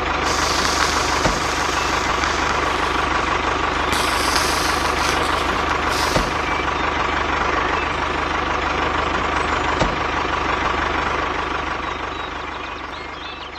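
A small engine running steadily with a fast, even low putter and a thin steady whine, fading out near the end.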